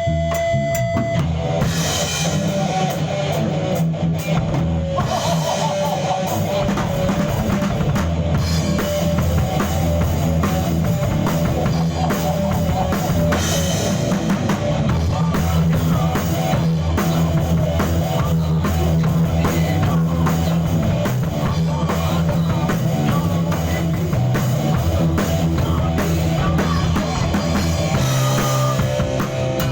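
Rock band playing live in a rehearsal studio: drum kit and guitar with a steady beat, the drums coming in fully about two seconds in.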